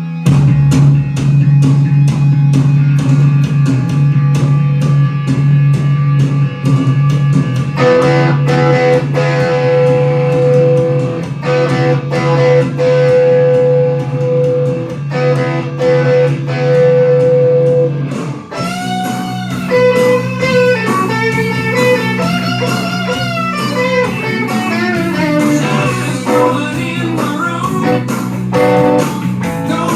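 Blues-rock band intro: drums keep an even beat under a held low guitar chord, then a little past halfway a lead electric guitar comes in, with bent notes.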